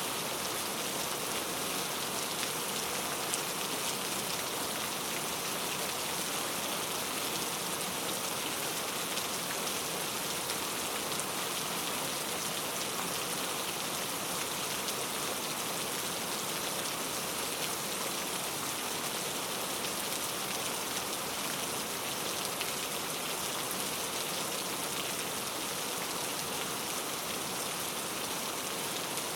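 Steady rain falling on forest foliage, a dense even hiss with fine droplet patter throughout.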